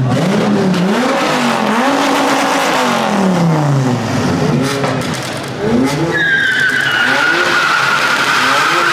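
A car engine revving up and down over and over, joined about six seconds in by a loud, sustained tire squeal, slowly dropping in pitch, as the tires break loose.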